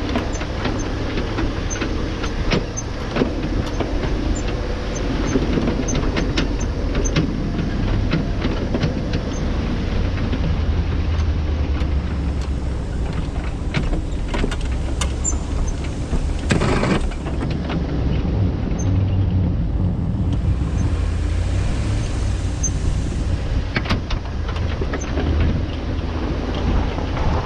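Motor vehicle engine running steadily with a low rumble, with frequent knocks and rattles on top.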